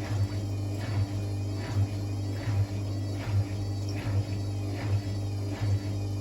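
Hotpoint WML540 washing machine partway through its fast wash: a steady hum with a rhythmic swish of wet laundry and water a little more than once a second as the drum turns.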